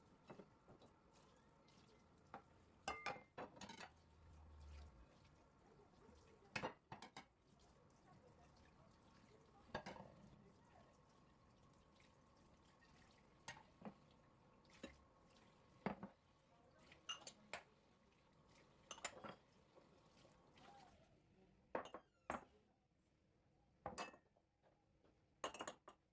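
Dishes and cutlery being handled in a kitchen: scattered clinks and knocks, one to three every couple of seconds, over a faint steady hum that dies away about three-quarters of the way through.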